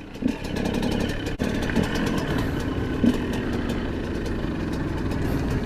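Motorcycle engine idling steadily, with a sharp click about a second and a half in.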